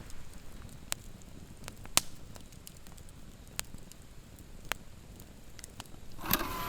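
Wood campfire crackling, with sharp pops about a second apart over a soft steady hiss. Music starts near the end.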